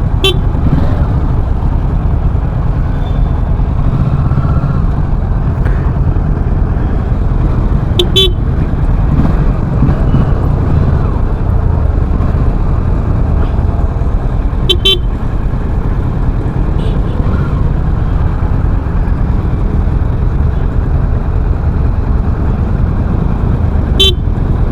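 Kawasaki Ninja 650's parallel-twin engine running under way, buried in a steady low rumble of wind on the microphone while riding. Four brief toots cut through at intervals of about seven to eight seconds.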